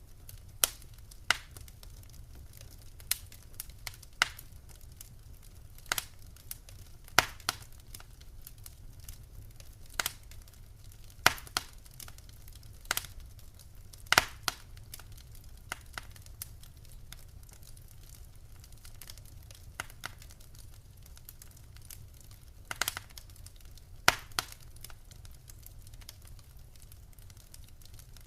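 Wood fire in a fireplace crackling, with irregular sharp pops and snaps over a low steady rumble; the pops thin out near the end.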